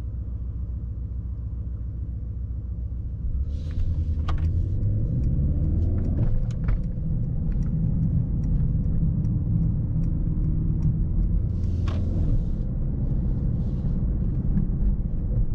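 In-cabin sound of a 2024 Mercedes-AMG S63 E Performance driving: a steady low rumble from its twin-turbo V8 and the road. It grows louder about three seconds in and rises in pitch twice as the car picks up speed.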